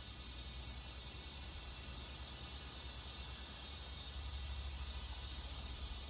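Steady, high-pitched insect drone, unbroken and even, over a low rumble.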